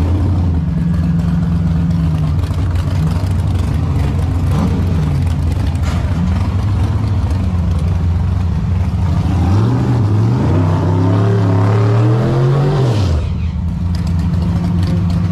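C5 Corvette Z06's V8 idling, then revved up about two-thirds of the way through, held up for around three seconds and dropped back to idle.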